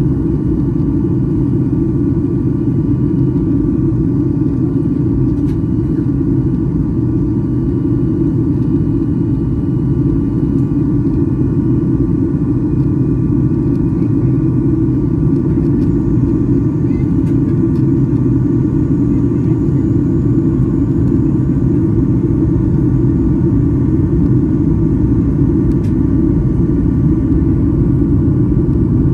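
Steady cabin rumble of a Southwest Airlines Boeing 737-800 airliner, the deep drone of airflow and its CFM56 turbofan engines heard from a passenger seat, with faint steady tones above it.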